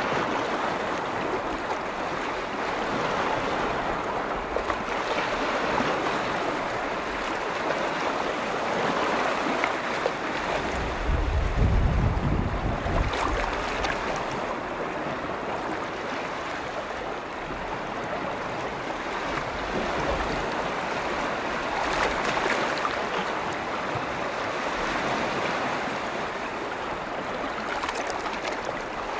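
Waves on a large freshwater lake washing in, rising and falling in surges every few seconds. A low gust of wind rumbles on the microphone for about three seconds, starting about ten seconds in.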